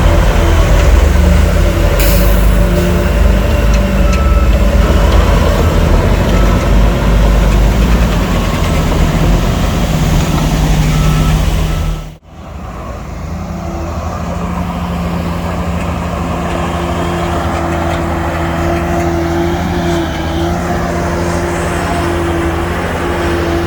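Heavy diesel earthmoving machinery running under load: bulldozer and dump-truck engines, with a reversing beeper going through the first half. About halfway there is an abrupt cut, and a steady diesel engine runs on after it.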